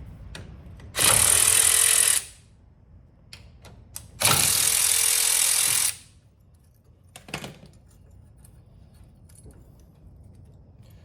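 Impact wrench run in two bursts, about a second and a half and two seconds long, breaking loose the brake caliper bolts, with a few light metal clinks between them.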